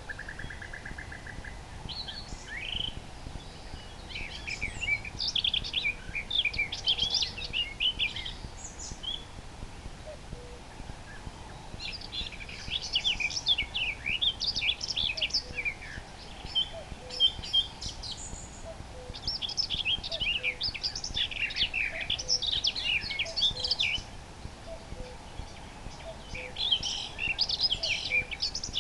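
Common nightingale singing: bouts of rapid, varied phrases a few seconds long, separated by short pauses.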